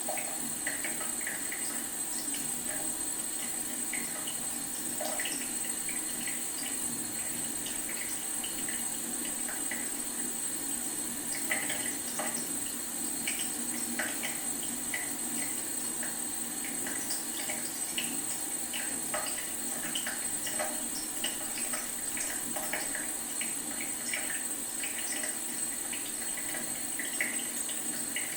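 Leaky faucet dripping: a quick, irregular patter of drops over a steady low rush of water. A constant thin high-pitched tone runs underneath.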